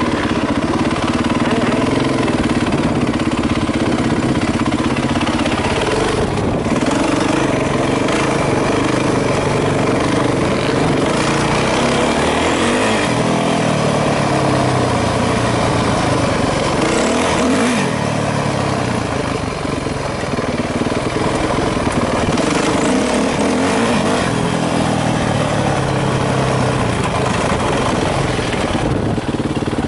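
Yamaha YZ450F's single-cylinder four-stroke engine, heard from on the bike, running at low speed with the revs rising and falling as it rides along a dirt track.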